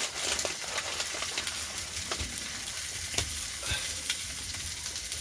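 Chicken frying: a steady sizzle with scattered small pops.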